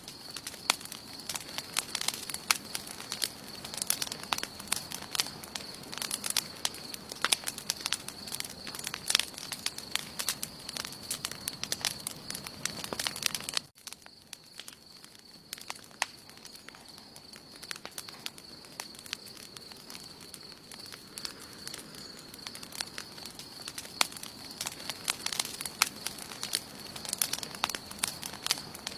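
Wood campfire burning, crackling with many sharp pops, over a steady faint high tone. About 14 seconds in the sound drops out for an instant, and the crackling is sparser and quieter for a few seconds before it builds again.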